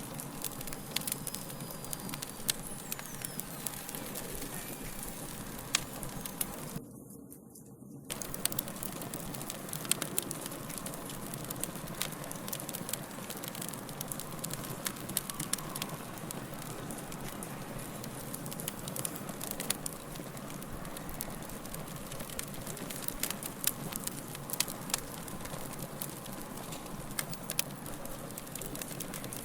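Wood fire crackling: a steady hiss with frequent sharp pops and snaps, which briefly drops away about seven seconds in.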